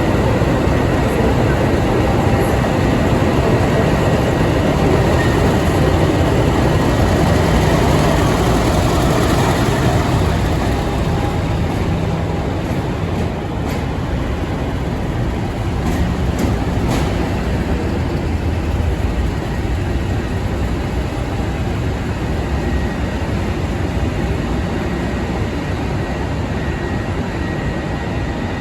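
A train running: a loud, steady rumble and track noise that eases a little about ten seconds in, with a few faint clicks partway through.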